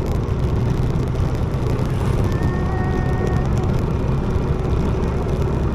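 Steady low rumble of a moving motor vehicle's engine and road noise, with a faint held higher tone briefly around the middle.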